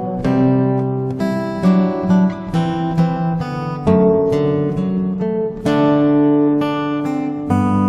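Background music: an acoustic guitar instrumental with plucked and strummed notes.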